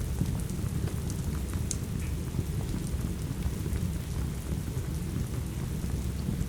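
Steady rain with a dense low rumble underneath, and scattered sharp crackles and pops from a wood fire.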